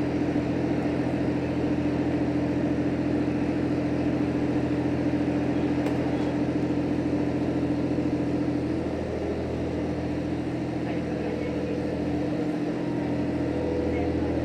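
JR Hokkaido H100 series diesel-electric railcar running, heard from inside the passenger cabin: a steady hum and drone over the rumble of the ride. It eases a little about nine seconds in and builds again near the end.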